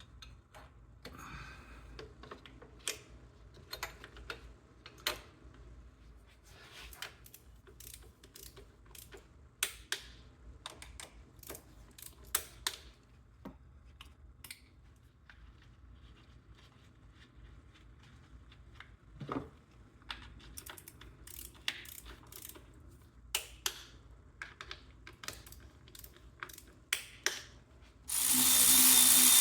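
Hand socket ratchet clicking in short runs, with scattered clicks and knocks of tools, while fasteners are tightened on the engine. About a second before the end, a loud, steady power-tool whir starts suddenly.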